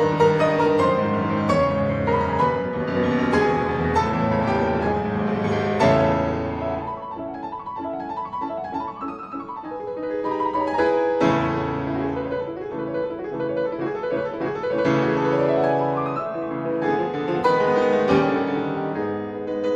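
Solo piano music, gentle and flowing, with rippling runs that rise and fall; it thins out and quietens for a few seconds in the middle before building again.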